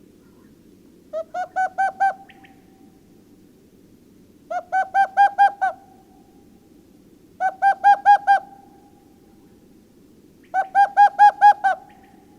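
An owl hooting in quick bursts of five or six clear notes, a burst about every three seconds.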